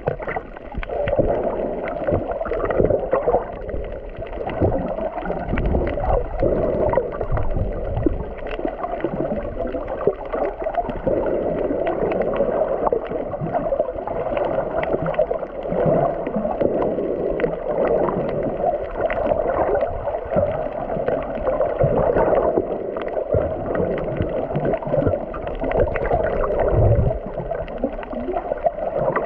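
Muffled underwater water noise while snorkeling: a steady rushing and gurgling with many small clicks and crackles.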